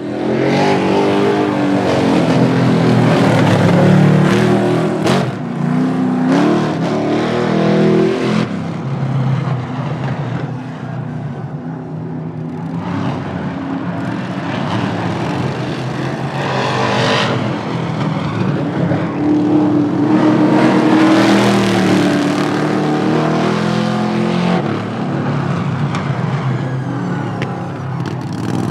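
Car engines running loud under hard acceleration, their pitch climbing and dropping through several rises.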